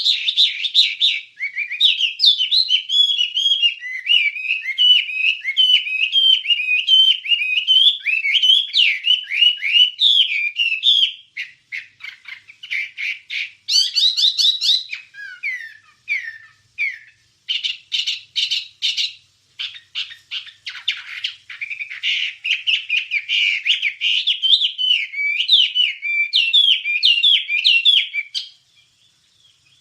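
A wambi songbird singing a fast, varied chattering song of quick rising and falling notes, broken by a few short pauses partway through. The song stops shortly before the end.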